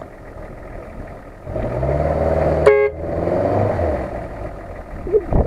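Off-road SUV engine revs up about a second and a half in and runs under load for a couple of seconds, with one short car horn toot in the middle of it; a low thump comes near the end.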